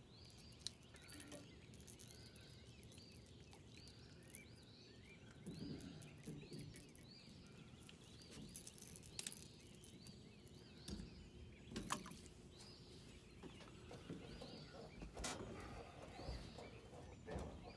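Quiet outdoor ambience with a bird repeating a short, high chirp over and over, about once or twice a second. A few sharp clicks and knocks break in, the loudest about halfway through.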